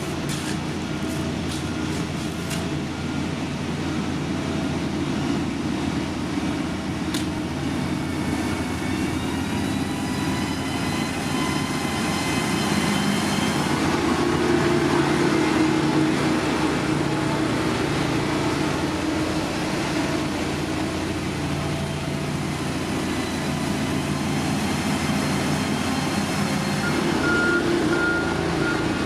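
Diesel engine of heavy construction machinery running, its pitch rising from about ten seconds in and easing back a few seconds later, with a few sharp clicks at the start. A reversing alarm starts beeping near the end.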